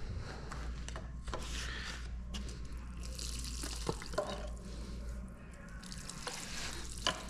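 Engine coolant trickling and dripping out from behind a loosened water pump cover on a 6.0L Powerstroke diesel, with a few light metal clicks of tools and parts.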